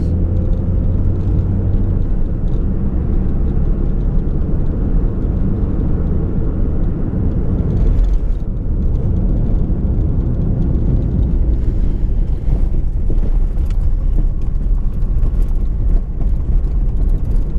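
Fiat Uno driving, with a steady engine hum and road rumble heard from inside the cabin and a few faint clicks now and then.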